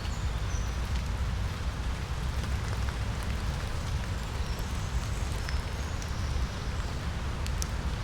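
Steady rain falling in a forest, pattering on wet leaves and ground with scattered individual drips, over a constant low rumble.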